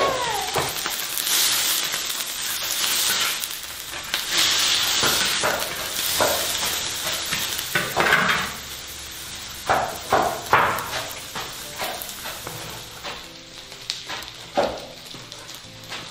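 Diced pork fat sizzling in a large wok, the hiss strongest in the first several seconds and then dying down. A cleaver knocks now and then on a wooden cutting board as pork is sliced.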